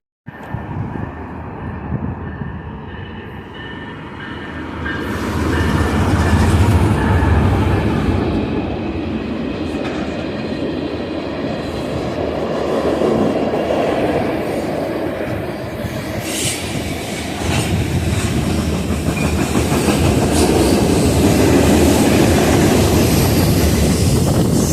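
A train rolling past on the track, the sound of its wheels on the rails growing louder about five seconds in and staying loud.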